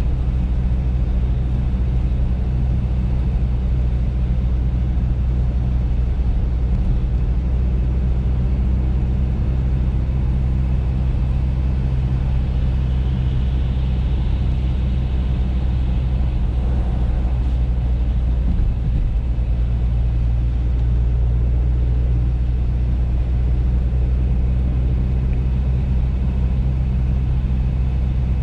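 Audi A3 driving at a steady speed, a constant low drone of engine and road noise. About halfway through, a hiss swells and fades over it.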